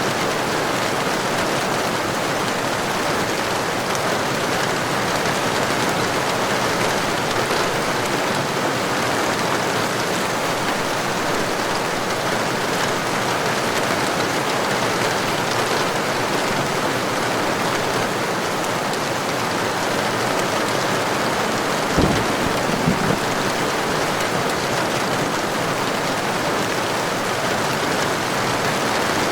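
Heavy rain falling steadily. About three-quarters of the way through comes a brief low rumble of thunder, a sharp onset with a couple of smaller after-pulses.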